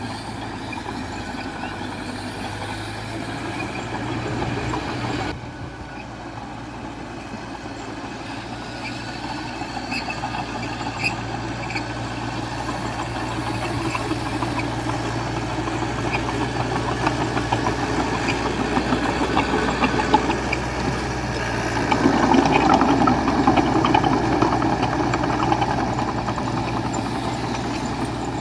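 Heavy diesel engine of earth-moving machinery running steadily, with scattered clanks. The sound drops abruptly about 5 seconds in and grows louder for a few seconds past the 22-second mark.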